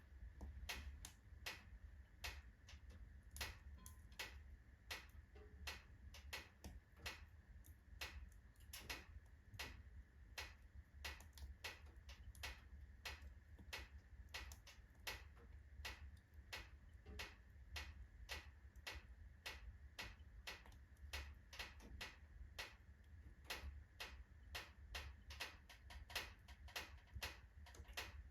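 Oak logs burning in a fireplace, crackling faintly with irregular sharp pops, a few per second, over a low steady hum.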